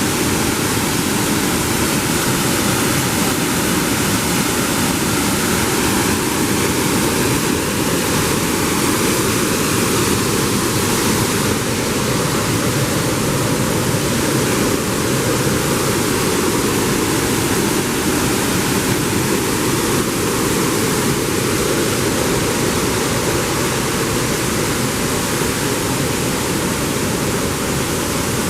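Waterfall rushing steadily and loudly, an unbroken wash of falling water.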